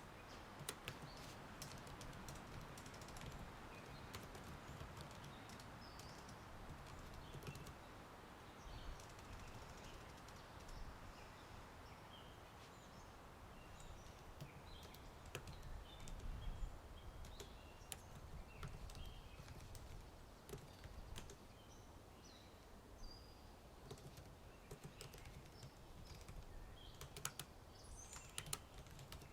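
Typing on a computer keyboard, irregular runs of soft clicks, over faint outdoor ambience of wind in trees with scattered bird chirps.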